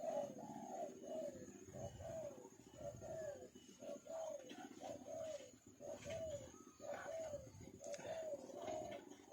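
Dove-like cooing: a rapid run of short notes, each rising and falling in pitch, about two a second without a break.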